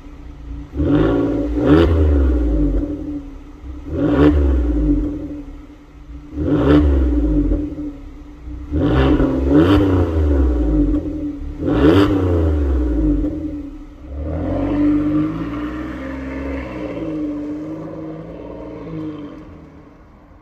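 Hyundai Palisade with a custom variable exhaust, revved five times in short blips about two and a half seconds apart over a steady idle hum, then running for several seconds with its pitch rising and falling before fading away.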